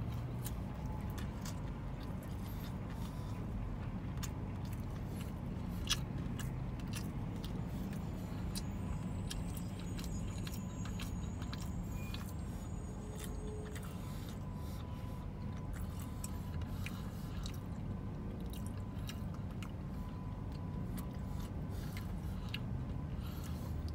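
Close-up chewing of a mouthful of crispy fried chicken and waffle, with many small crunching clicks, over the low steady hum of a car's interior.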